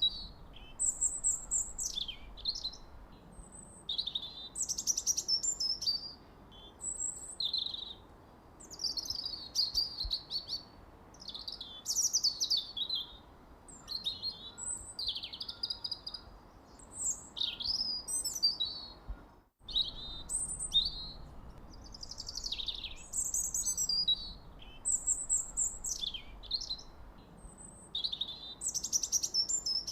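Songbirds singing: short, high-pitched phrases of chirps, trills and quick falling notes, repeated every second or two over a soft background hiss. There is a brief sharp cut-out about two-thirds of the way through.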